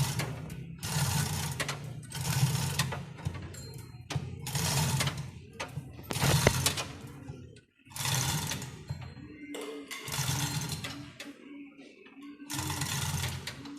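Manual chain hoist being hauled in repeated strokes, its chain rattling through the block in bursts about every second and a half as the engine is lifted.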